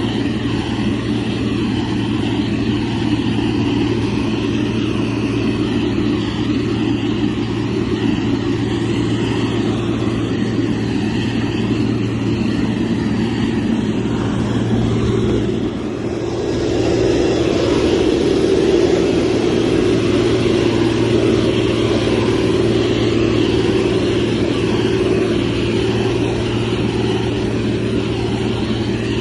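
Motor grader's diesel engine running steadily under work. It dips briefly about halfway through, then runs a little harder.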